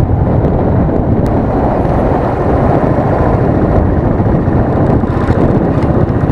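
Wind rumbling on an action camera's microphone over a Royal Enfield Thunderbird's single-cylinder engine running while riding: a loud, steady rumble.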